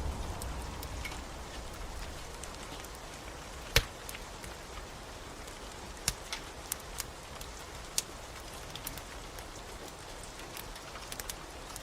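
Steady rain with a wood fire crackling over it: scattered sharp pops, the loudest about four seconds in. The tail of a low thunder rumble dies away at the start.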